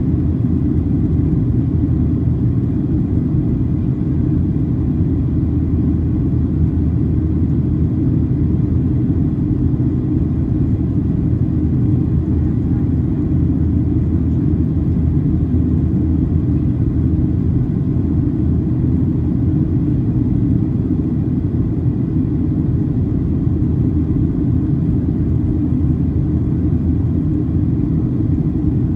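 Steady low rumble of a Boeing 737-800 in flight, heard from inside the passenger cabin: CFM56-7B engine noise and airflow over the fuselage, holding an even level throughout.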